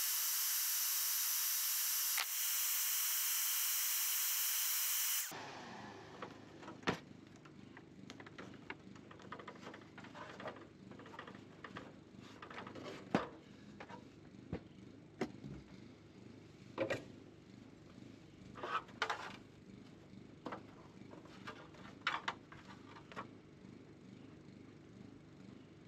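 A power tool runs steadily with a held whine for about five seconds, then cuts off abruptly. Scattered light clicks and knocks of handling follow.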